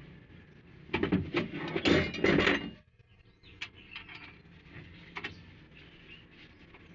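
Rapid mechanical clicking and clattering of hand tools at work on an engine, loud for about two seconds and then cutting off suddenly, with a few faint clicks after.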